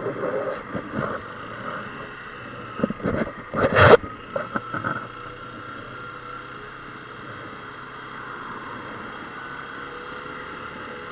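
Motorcycle engine running steadily under wind and road noise, heard through the rider's camera microphone, with a short cluster of loud bumps or rustles about three to four seconds in.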